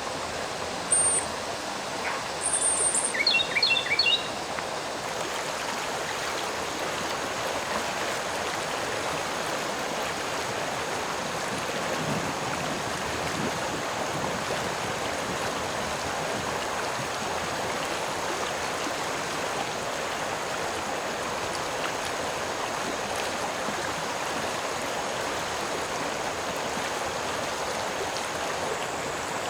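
A stream of water flowing, a steady rushing. A few short, high bird chirps and a brief trill come over it in the first few seconds.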